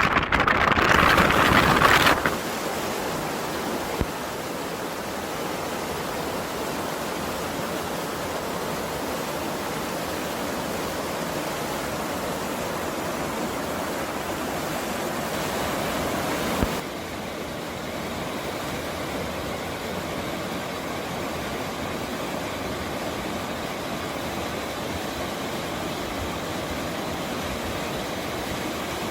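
Steady rushing of a mountain stream. It is louder and brighter for the first two seconds, then settles, and turns slightly duller about seventeen seconds in.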